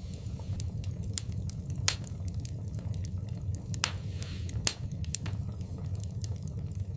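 Wood fire in a fireplace burning with a steady low rumble and irregular sharp crackles and pops, a few louder snaps among them.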